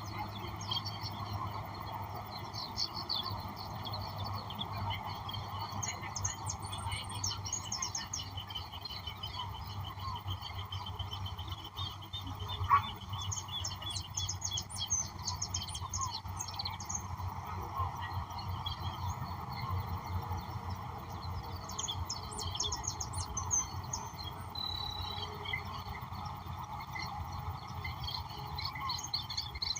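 Several songbirds singing and calling over one another, with quick chirps and trills throughout, over a steady low hum. A single sharp click about thirteen seconds in is the loudest sound.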